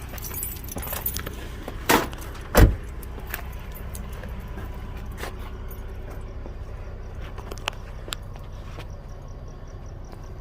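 Dodge Journey engine idling with a steady low hum. Two sharp knocks about two seconds in, the second the loudest, with a few light clicks and jingles around them.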